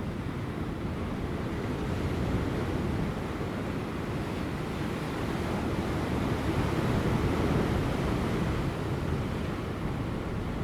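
Large ocean waves breaking on rocks: continuous surf, swelling louder about two-thirds of the way in, with light wind buffeting the microphone.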